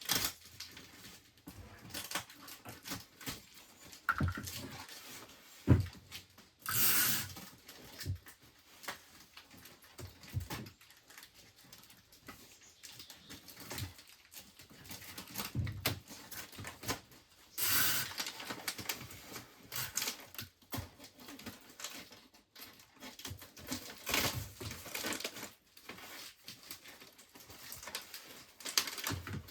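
Items being handled and sorted by hand: scattered clicks, light knocks and rustling, with two louder rustles about seven and eighteen seconds in.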